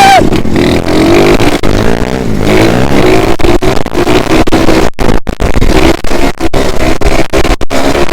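Pit bike engine revving up and down under way on a trail, loud and close. From about five seconds in, the sound keeps cutting out for split seconds.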